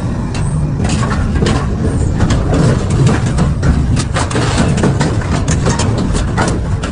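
Industrial double-shaft shredder running under load, a heavy steady rumble from its drive with a constant run of sharp cracks and crunches as material is torn apart between the cutter shafts.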